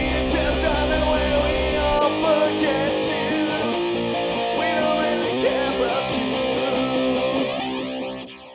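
The ending of a rock song played on rhythm guitars, with singing weak at most. The lowest notes drop out about two seconds in, and the guitars ring on and fade out near the end.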